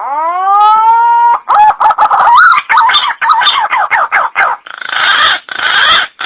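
Green pigeon (punai) calling: a rising whistle held for about a second, then a quick run of warbling, wavering notes, ending in three rough, raspy notes.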